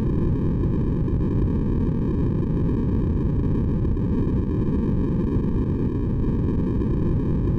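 Steady synthesized white noise, weighted toward the low end: a deep, even hiss that does not change.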